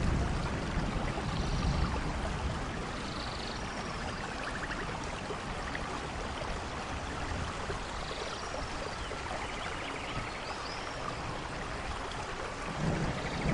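Steady rainforest rain hissing, with low thunder rumbling at the start and again near the end. Faint short chirps and trills of animals sound over the rain.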